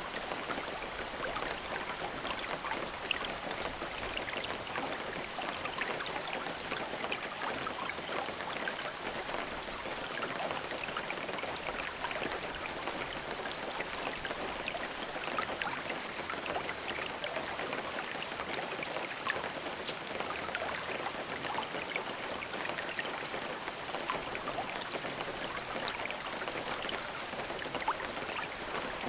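Steady rain falling, a constant hiss of drops with many small individual drop ticks on a surface, no thunder.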